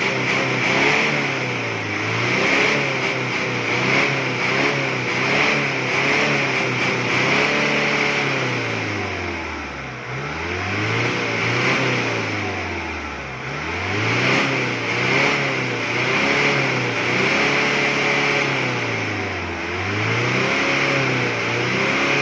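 Car engine, its oil freshly dosed with an anti-smoke additive, revved up and let fall back again and again, a rise and drop every few seconds, the free-revving done in a smoke-belching test.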